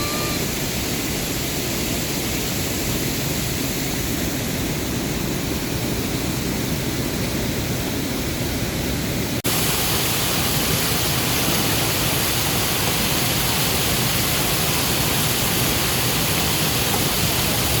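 Rushing water of a mountain stream, a steady loud hiss. About halfway through the sound changes abruptly to a brighter, slightly louder rush.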